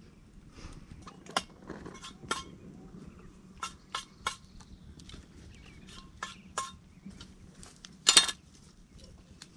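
A series of sharp knocks and clinks of hard objects, about a dozen, spread out unevenly, with the loudest, a brief ringing clatter, near the end.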